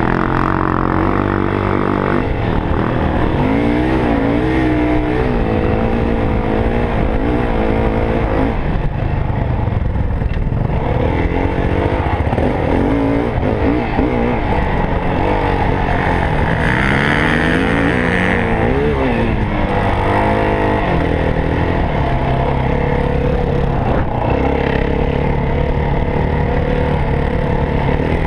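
Yamaha WR450F single-cylinder four-stroke dirt bike engine being ridden off-road, its pitch rising and falling repeatedly as the throttle is opened and closed through the gears.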